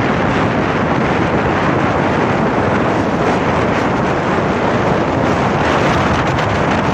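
Strong windstorm blowing hard across the microphone: a loud, steady rushing without a break.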